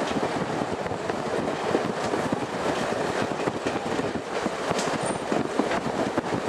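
Class 108 diesel multiple unit running along the line, heard from on board: a steady rumble of wheels on rail with many small knocks and rattles.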